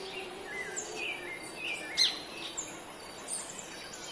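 Birds calling over a steady background hiss: many short high chirps and falling whistles, with one sharper chirp about two seconds in.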